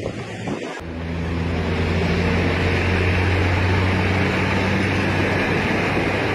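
A heavy truck's engine running steadily under load, with a rough rushing noise over it, starting after a cut about a second in.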